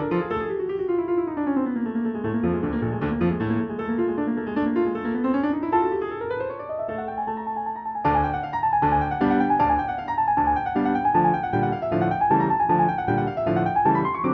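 Background piano music: fast running notes that sweep down and up in pitch, changing to a new, more rhythmic figure about eight seconds in.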